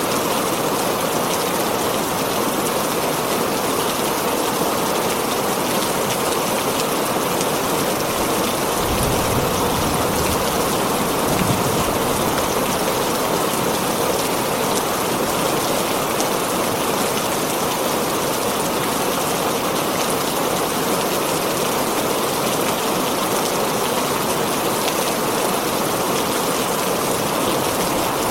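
Heavy rain falling steadily on a tin roof, a dense even downpour. There is a low rumble of thunder about nine seconds in.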